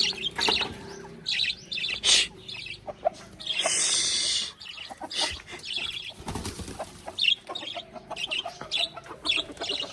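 Backyard hens and other birds chirping and calling in many short, high notes, with a burst of rustling about four seconds in.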